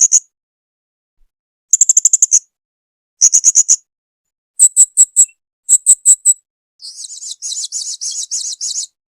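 Serindit hanging parrot calling in short bursts of rapid, shrill, high-pitched notes, about five bursts with silent gaps between them. Near the end comes a longer, quieter, buzzy twittering.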